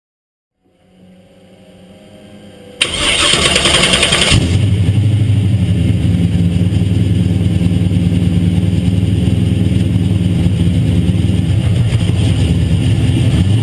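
Stroked, high-compression, cammed LS1 V8 in a Nissan 350z cranking on the starter, then catching with a loud flare about three seconds in and settling into a steady, loud idle.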